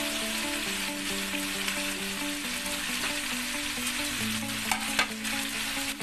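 Chicken and chayote sizzling in a metal wok, with two sharp clicks of the metal spatula against the wok a little before the end.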